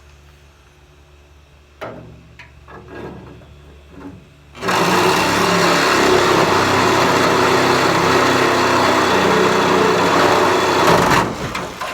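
Reciprocating saw (Sawzall) cutting through the sheet-metal of a pickup bed: a loud, steady rasping run of about six seconds that starts suddenly and stops near the end, after a few knocks in the first few seconds.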